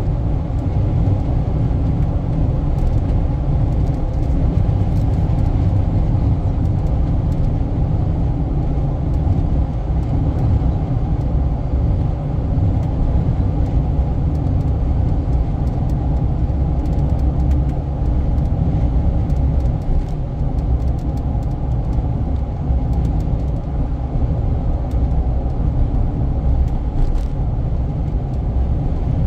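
Steady low rumble of a car being driven: road and engine noise with no distinct events.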